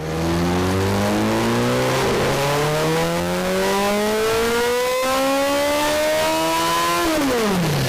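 Motorcycle engine accelerating hard, its pitch climbing through several gear changes, then falling steeply near the end as the throttle is shut or the bike passes.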